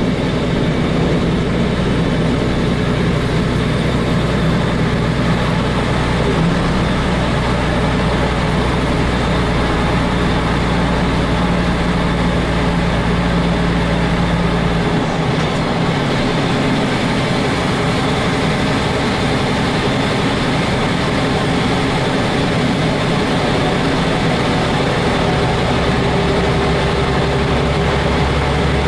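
Heavy truck's diesel engine running under way, heard inside the cab through the open roof hatch. A deep low drone drops away about halfway through and comes back near the end.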